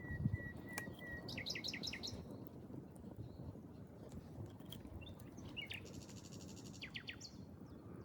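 Forest songbirds calling: a quick run of descending chirps about a second and a half in, then a buzzy trill followed by more descending chirps near the end, over a low, steady rumble. A brief low thump comes right at the start.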